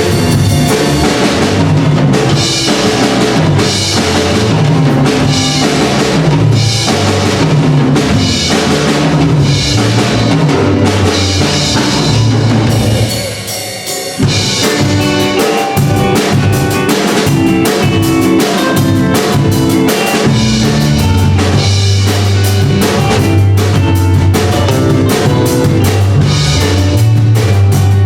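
A band playing loud music with a drum kit and bass guitar. The music thins out briefly about thirteen seconds in, then comes back in full.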